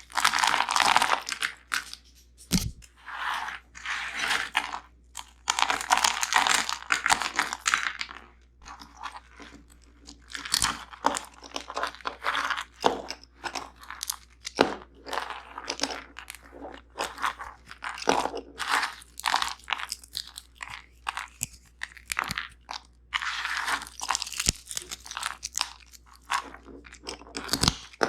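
Close-miked crunching and chewing of nuts and seeds, in dense runs during the first eight seconds and again near the end, with sparser single crunches in between.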